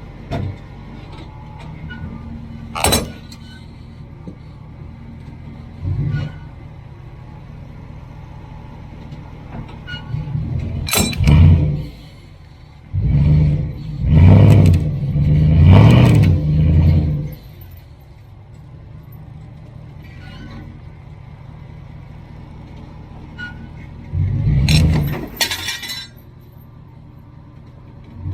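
Pickup truck engine running, revving hard several times under load as it pulls a deeply set sign post out of the ground, with a few sharp clanks.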